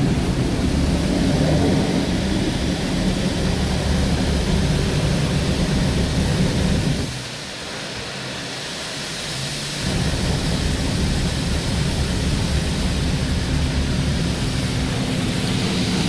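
High-pressure rinse jets of a Belanger Kondor KL2 touchless car wash spraying the car, heard from inside the cabin: a steady rushing hiss over a low drone. About seven seconds in, the spray and drone drop away for roughly three seconds, then return as strongly as before.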